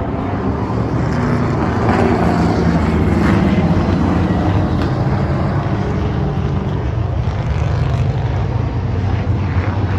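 Race truck engines running steadily with a low drone.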